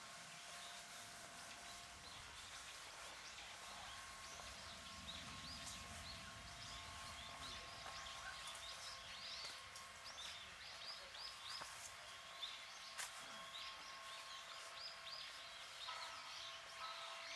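Small birds chirping, many short high calls coming thick and fast from about five seconds in, over a faint steady hum.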